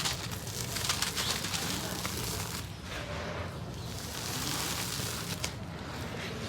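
Gritty cement being sifted and crumbled: a dense crackle of falling grains with a few sharp ticks.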